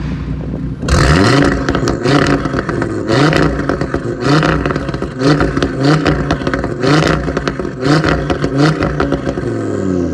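Audi RS3's 2.5 TFSI turbocharged inline five-cylinder engine breathing through an aftermarket sport exhaust. It idles, then is blipped repeatedly from about a second in, roughly once a second, the pitch rising and falling with each rev.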